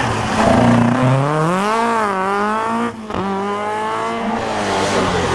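Fiat 127 rally car's four-cylinder engine revving hard, its pitch climbing as it accelerates. About three seconds in it breaks off briefly at an upshift, then pulls again at a lower, steady pitch.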